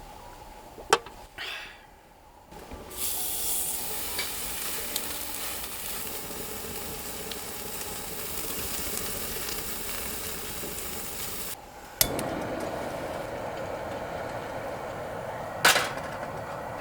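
Food sizzling and frying in a pan, starting about three seconds in as a dense high hiss and cutting off abruptly near twelve seconds. A sharp click comes before it, and afterwards a steadier, lower rushing noise with another click.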